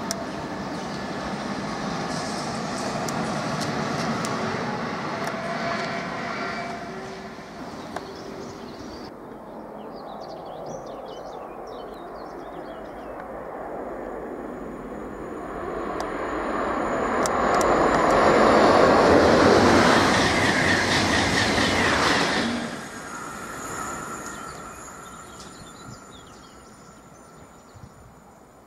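A Thalys TGV high-speed train approaching and passing at speed, swelling to a loud rush of wheels and air that peaks about two-thirds of the way in, then falls away sharply. Before it, a first stretch holds another train running past at a steadier level.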